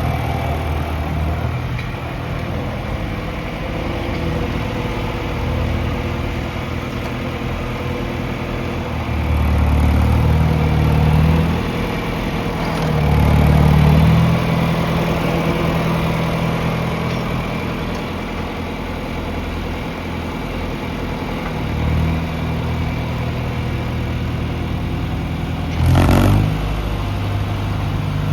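John Deere 2510 tractor's four-cylinder gasoline engine idling, revved up twice for a couple of seconds each about ten and thirteen seconds in, with a shorter blip later and a brief sharp burst near the end.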